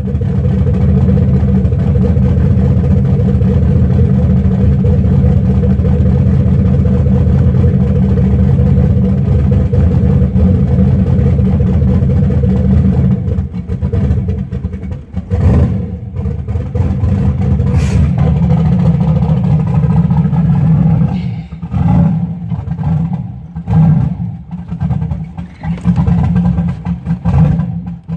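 Turbocharged GM LS V8 running steadily at a fast idle on a cold start, its Microsquirt ECU's cold-start enrichment being leaned out after running very rich. From about halfway through the sound turns choppy, with repeated short drop-outs and a sharp click.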